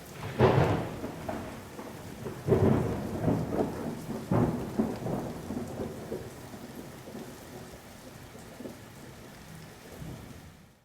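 Thunderstorm: rain falling steadily while thunder rumbles. The thunder is loudest about half a second in, around two and a half seconds and near four and a half seconds, then dies away.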